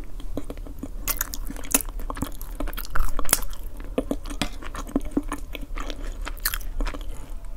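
Close-miked chewing, with wet mouth clicks and crackles as a mouthful is eaten. Light clinks and scrapes of a fork and knife come in as the cutlery cuts into oven-baked eggplant with cheese on the plate.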